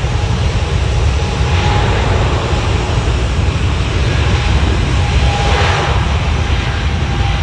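Boeing 777-200LR's GE90 turbofan engines at takeoff power, a loud, steady jet roar with a deep rumble and a faint steady whine.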